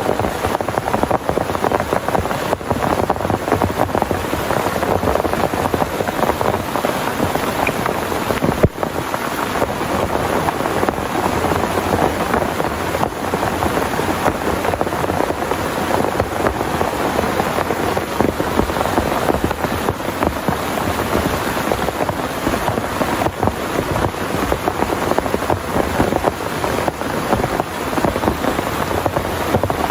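Heavy rain falling steadily, dense drops hitting a surface, with one short sharp tick about nine seconds in.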